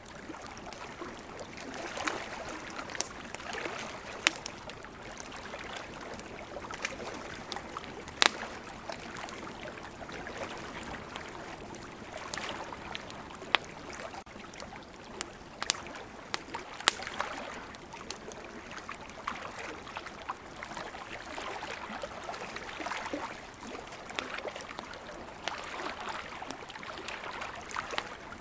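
Wood campfire crackling, with many sharp pops scattered throughout, over a soft wash of sea waves that swells and fades every few seconds.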